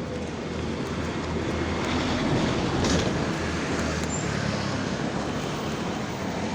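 A motor vehicle passing on the road, its engine and tyre noise swelling to a peak about two to three seconds in and then easing off, over steady traffic noise.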